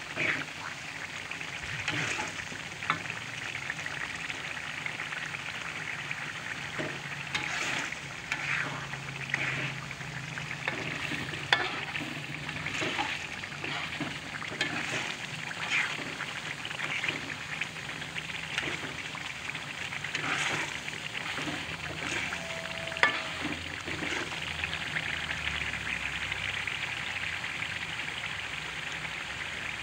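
Red chili balado sambal sizzling and bubbling in a wok as it fries, while a spoon or spatula stirs it and scrapes and knocks against the metal pan many times; one sharp knock stands out about 23 seconds in.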